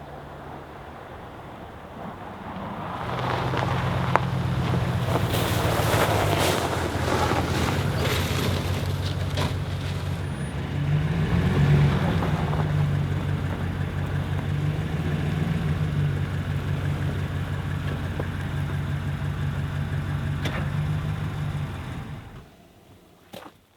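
Pickup truck engine running as the truck drives, growing louder about three seconds in as it pulls away, then stopping near the end.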